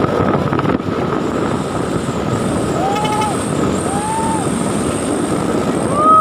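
A truck running at speed, a steady loud rush of engine, road and wind noise. Three short tones that rise and fall in pitch come over it about three, four and six seconds in.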